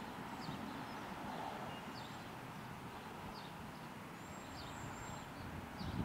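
Small birds chirping: short falling chirps about once a second and a few thin high whistles, over a low steady background rumble. The siren is not sounding.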